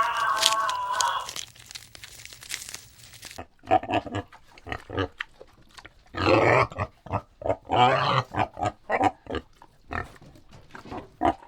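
An animal's calls: one held call that ends about a second and a half in, then after a pause a run of short grunts, with two longer, louder calls in the middle.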